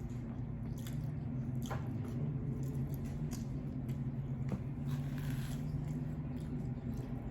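Close-up wet chewing and smacking mouth sounds of someone eating lo mein noodles, with scattered small clicks, over a steady low hum.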